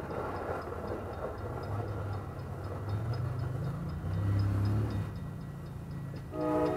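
Rumble of the Amtrak Vermonter passenger train fading after it passes, with a low drone that swells and dies away. A brief higher tone sounds near the end.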